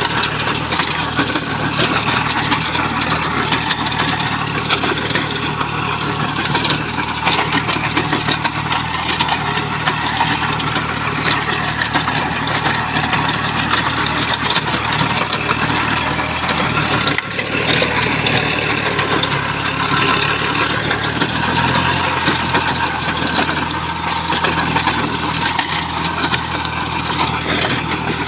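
Small Kubota tractor's diesel engine running steadily at work, with a dense mechanical clatter over it; the engine note shifts about two-thirds of the way through.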